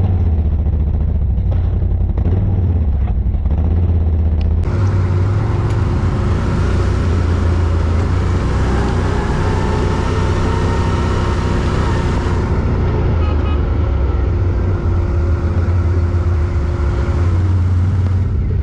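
Quad bike engine running steadily at low revs, heard from close on board. About four and a half seconds in, a brighter hiss joins the engine sound and lasts most of the rest, with a steady higher tone over it until near the end.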